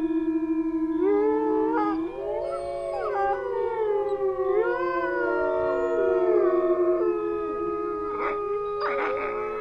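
A pack of wolves howling in chorus: several long howls overlap at different pitches, each sliding up and down, with a few short yips near the end.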